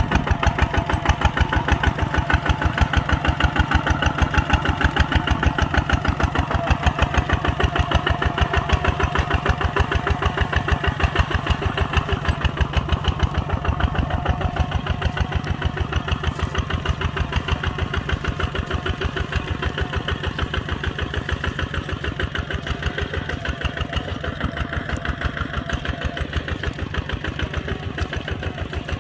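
Kubota ZT140 single-cylinder diesel engine of a walking tractor running steadily with a rapid, even chugging while plowing a field.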